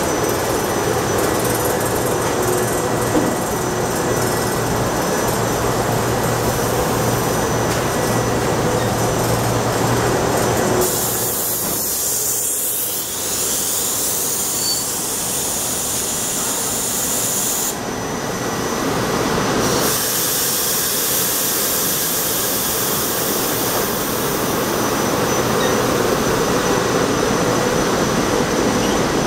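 GE Silverliner IV electric multiple-unit commuter cars pulling out and rolling past at close range, with steady rail running noise. A low hum under it stops about ten seconds in.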